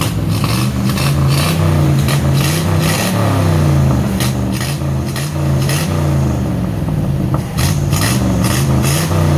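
Engine of a 1962 long-wheelbase pickup truck being revved up and let back down repeatedly, about once a second, with sharp crackles.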